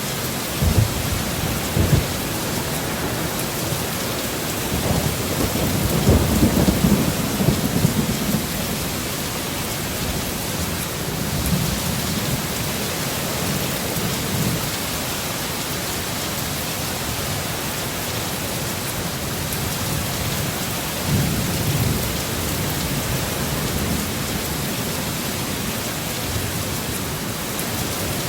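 Heavy, steady rain hissing, with rolls of thunder rumbling low several times. The longest and loudest roll comes about five to eight seconds in.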